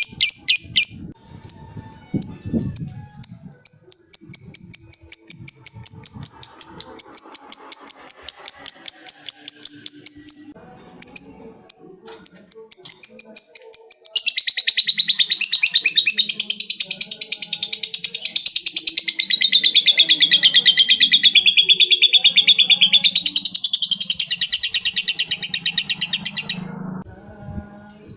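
Lovebird giving its long 'ngekek' chatter: a rapid, even string of shrill notes, several a second. After a break near the middle it goes into one unbroken run of about twelve seconds that stops abruptly near the end.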